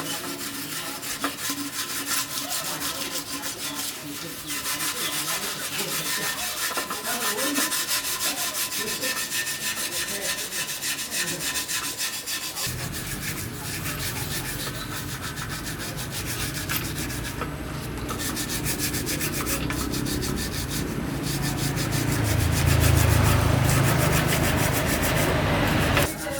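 Abrasive rubbing and scraping, like sanding, continuing throughout. About halfway in, a low rumble joins it and grows louder toward the end, then drops away just before the end.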